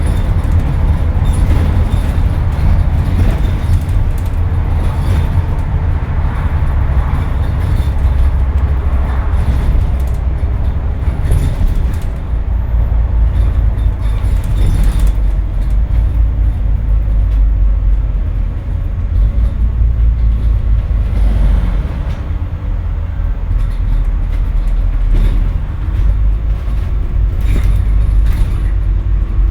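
Scania N230UD double-decker bus, heard on board, its five-cylinder diesel engine working hard under load as it is driven fast. The low engine rumble steps up and down a few times, with scattered knocks and rattles.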